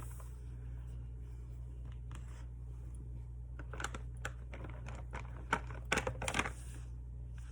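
A run of light clicks and crinkles from paper, stickers or tape being handled, coming in a cluster about halfway through, over a steady low hum.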